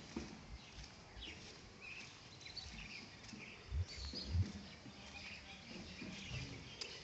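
Several birds chirping in short calls, with two low thumps close together about four seconds in.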